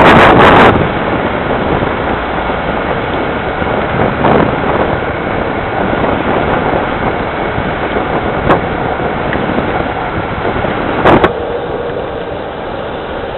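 Rain falling in a steady loud hiss, broken by a few brief sharp bumps: a longer loud one at the very start, then short ones about four, eight and eleven seconds in.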